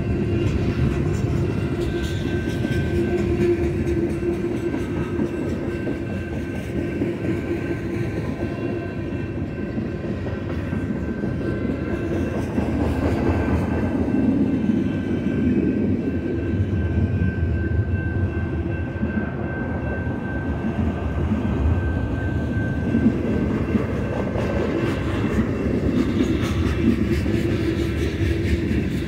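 Freight cars of a long manifest train rolling past at speed: a continuous heavy rumble of steel wheels on rail with rapid clacking over the rail joints, and a thin steady high tone above it.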